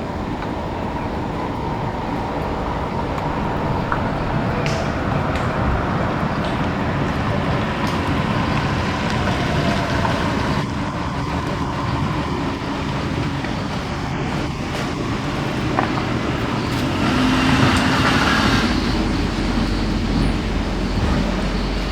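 Steady road traffic noise from passing vehicles, swelling louder near the end as a vehicle passes close.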